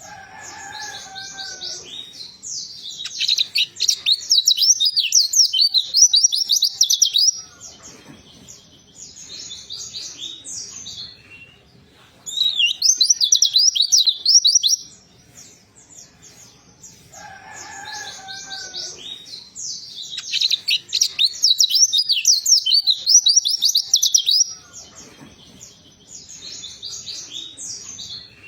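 Pleci (white-eye) song: long phrases of rapid, high twittering trills, several seconds each, separated by quieter chatter, with a lower whistled note near the start and again partway through. It is a training track meant to lure a silent pleci into song.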